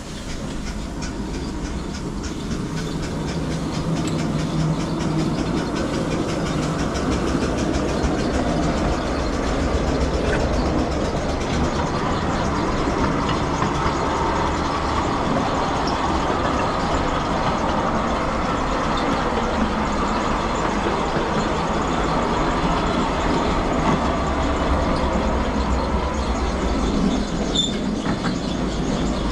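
Miniature railway train running along the track: a rapid, even clatter that grows louder over the first few seconds, then stays steady.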